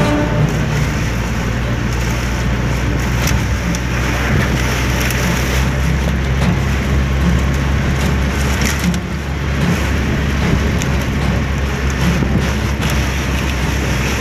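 Steady, loud rumble and hiss of wind and a moving vehicle in a storm.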